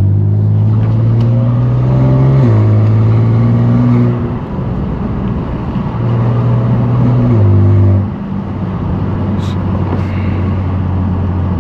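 Straight-piped twin-turbo S55 inline-six of a 2018 BMW M3 Competition droning at low revs, its exhaust note stepping up and down in pitch and loudness a few times as the throttle comes on and off.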